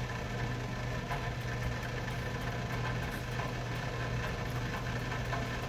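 A steady low machine hum with faint scattered ticks over it.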